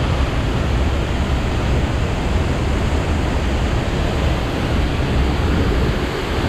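A 110 ft waterfall running high, roaring as a loud, steady rush of falling water with a deep low rumble underneath.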